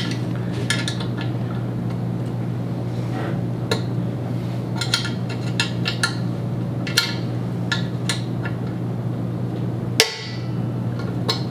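Allen wrench clicking and knocking against a metal monitor mount while a set screw at the back is tightened: scattered light clicks with a louder knock near the end, over a steady low hum.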